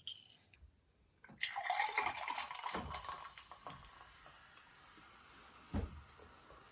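A sudden rush of liquid about a second and a half in, loud for a second and then fading into a faint steady hiss. A single soft thump comes near the end.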